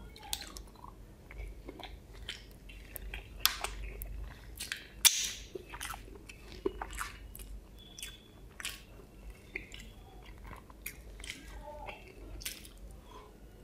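Close-miked chewing: wet mouth clicks and smacks as a person eats curried boiled egg and rice by hand, with one louder smack about five seconds in.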